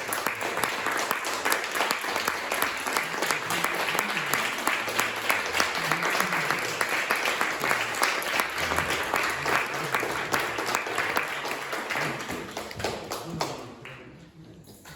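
Audience applauding, a dense steady clapping that dies away over the last two seconds or so.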